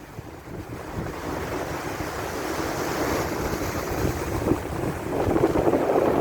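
Wind rushing and buffeting the microphone, growing louder toward the end.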